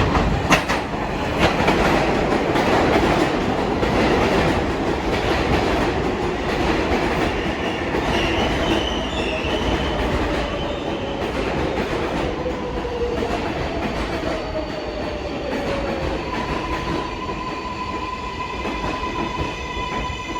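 R188 subway train pulling into the station: wheels clacking and squealing on the rails while the motor whine falls slowly in pitch as the train brakes. A steady high tone comes in about three-quarters of the way through as it comes to a stop.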